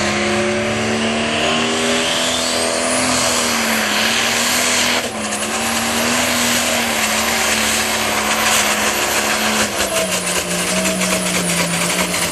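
Super stock pulling tractor's triple-turbocharged diesel running at high revs, with a high turbo whistle rising about two seconds in. About ten seconds in the engine note drops and it runs rough and stuttering, which the announcer calls coughing and choking: something isn't right in the engine.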